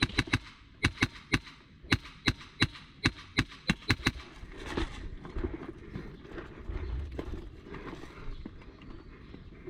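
A run of sharp, irregularly spaced snaps or knocks, about two or three a second, that stop about four seconds in, followed by quieter shuffling and a low rumble.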